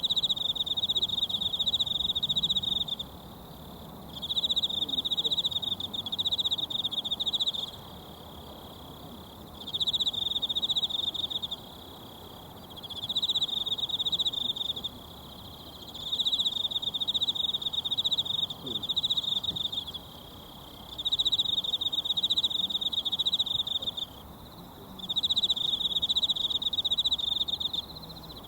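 An insect trilling in repeated bursts of two to four seconds with short pauses between, a high, rapidly pulsing song, over the faint steady rush of a mountain stream.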